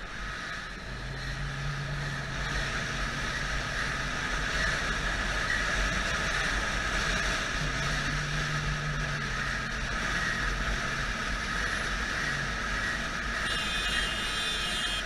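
A motorcycle being ridden: its engine running at steady revs under constant wind and road noise. A thin, high whine of several tones joins in near the end.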